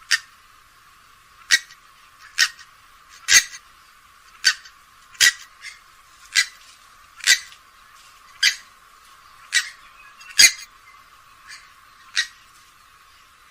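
Grey-headed swamphen giving a series of short, sharp call notes, about one a second, a dozen or so in all.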